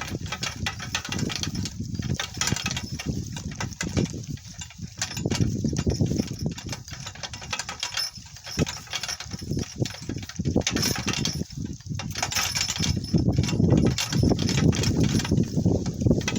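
A donkey-drawn cart rolling over rough, bumpy ground: a steady rumble with irregular knocks and rattles as it jolts along.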